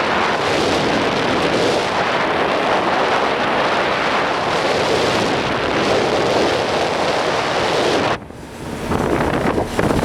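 Wind buffeting the microphone over the rush of a boat moving through water: a steady, loud, noisy roar. It drops out suddenly about eight seconds in and builds back within a second.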